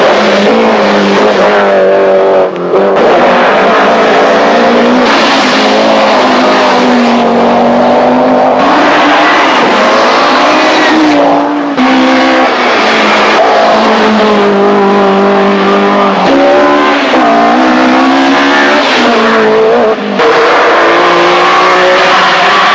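Early-1980s rally cars driven flat out. The engine note climbs and falls repeatedly through gear changes, with brief drops in sound about two and a half, eleven and a half and twenty seconds in.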